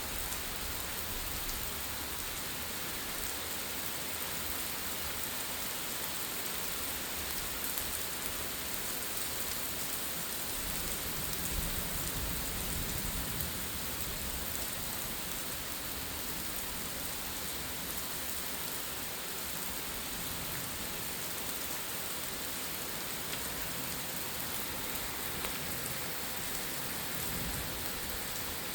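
Steady heavy rain pouring and splashing on surfaces, with a brief low rumble about halfway through.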